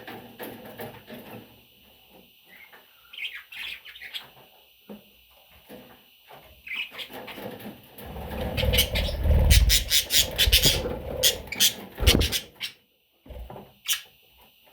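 Baby budgerigars chirping and squeaking in short high calls. In the second half come loud rustling and thumps, with a quick run of sharp clicks.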